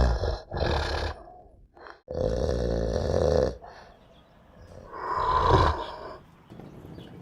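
A polar bear's growls and grunts: four rough, low calls, the longest about a second and a half, then a faint low rumble near the end.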